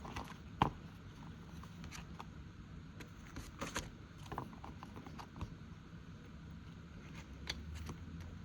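Envelopes being handled and rearranged: light rustling with a few sharp taps and clicks, the loudest just under a second in.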